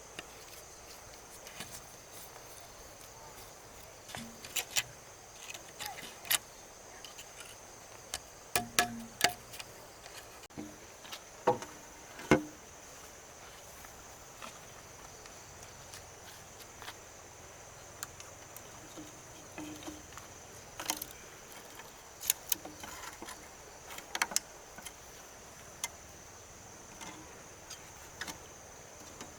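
Steady high insect chirring, with scattered sharp knocks and clicks, the loudest about twelve seconds in.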